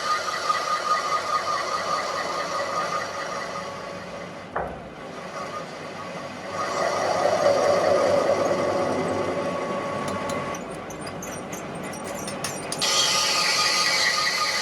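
Workshop machinery running with a steady high whine and a grinding hiss. The sound shifts abruptly a few times, with a sharp click a few seconds in and scattered ticks near the end.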